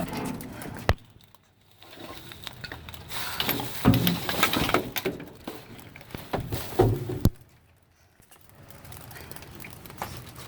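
Rummaging through a dumpster: irregular clattering, rustling and knocking as boxes and packaged goods are handled. There is a sharp knock about a second in, and a busy stretch of clatter in the middle ending with another sharp knock.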